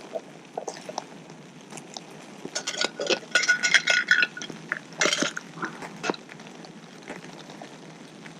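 A dog eating from a bowl, with wet chomping and clinks against the bowl, busiest from about two and a half to four seconds in and again around five seconds.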